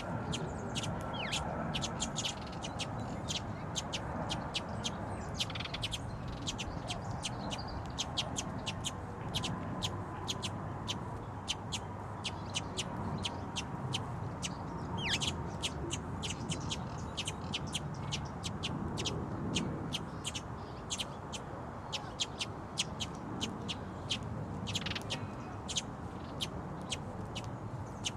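Small birds chirping: many short, sharp, high chirps in quick succession, several a second, over a steady low background hum.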